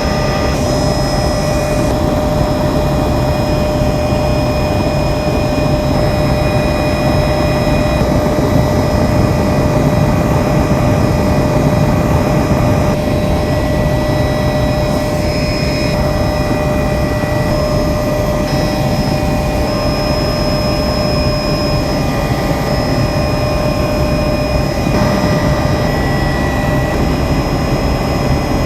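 Helicopter in flight: steady engine and rotor noise, a constant rumble with a steady high whine running over it.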